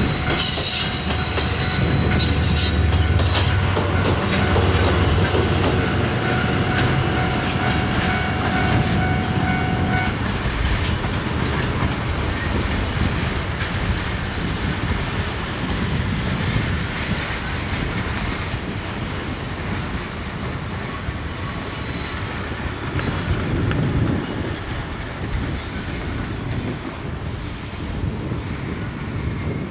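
Diesel-hauled freight train passing at close range: a heavy low rumble with steady tones for about the first ten seconds, then the lighter, continuous rolling noise of the wagons with rail-joint clicks and some wheel squeal, easing slightly near the end.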